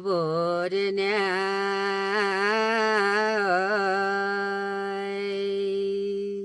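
A single voice singing a long, ornamented line that wavers up and down in pitch, then holds one steady note for a couple of seconds and cuts off abruptly at the end.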